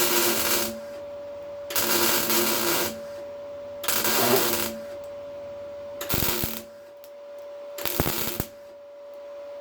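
Small MIG welder laying short tack or stitch welds on car body steel: five separate crackling, sizzling bursts of about a second each, over a steady faint hum.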